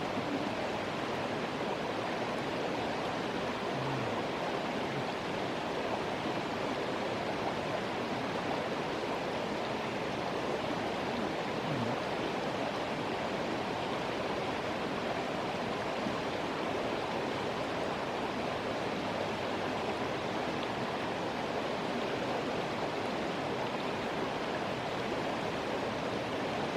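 Flowing river water, a steady even rush of noise.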